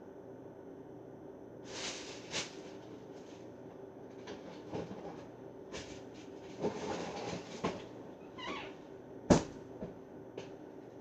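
Kitchen items being handled: scattered rustles and light clicks and knocks, with one sharp knock about nine seconds in, over a faint steady hum.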